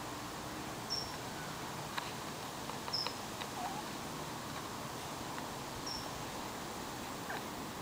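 Outdoor ambience with a bird giving short, high, downward chirps every one to three seconds over a steady background hiss.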